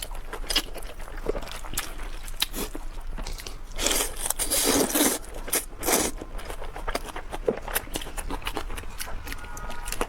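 Close-up eating sounds of sesame-sauce mianpi (cold noodle sheets): wet chewing and lip smacks with many small clicks, and a louder noisy stretch about four to five seconds in and again near six seconds.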